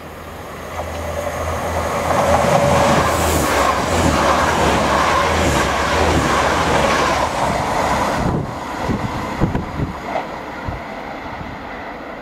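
Diesel multiple-unit passenger train running through a station at speed. Engine hum and wheel noise build up over the first couple of seconds and stay loud, then drop away sharply after about eight seconds. A few wheel clacks follow and the sound fades as the train recedes.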